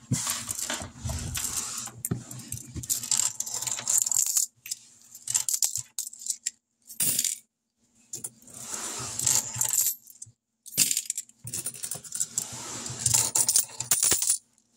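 Dimes clinking and jangling as they are dropped into a nearly full coin jar, in several bursts with short pauses between.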